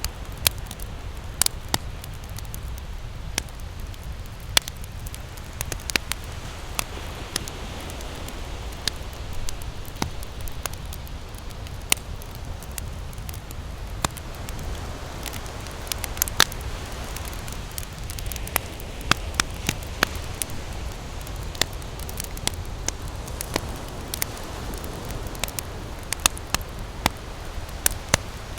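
Wood campfire crackling, with frequent sharp irregular pops, over a steady low wash of ocean surf.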